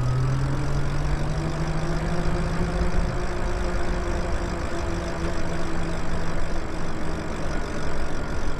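Electric bike's motor whining steadily under throttle, its pitch shifting slightly with speed, over rumble from the tyres and wind.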